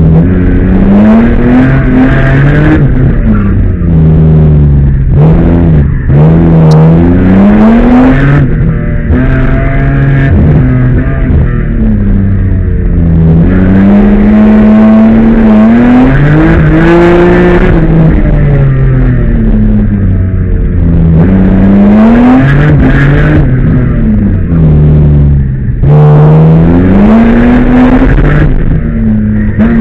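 BMW E30 with a swapped-in M5 engine driven hard, the engine revving up and falling back over and over as the car is thrown sideways through slalom turns. The engine runs loud and unbroken, its pitch climbing and dropping every two to four seconds.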